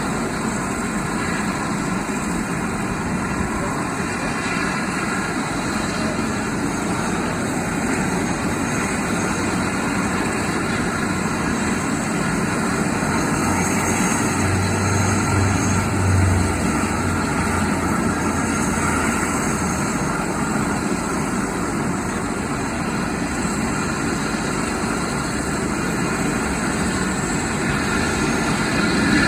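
Helicopter running steadily, a continuous engine and rotor sound with a whine of several steady tones; a deep hum grows stronger about halfway through.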